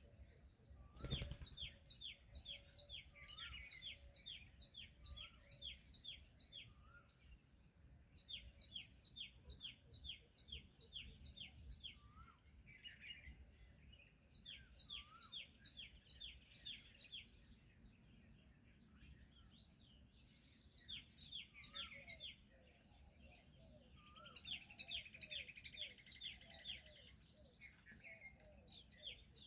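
Faint bird calls: runs of quick, high chirps, each run lasting a few seconds and repeating several times, with a softer rising whistle every couple of seconds. A single sharp click comes about a second in.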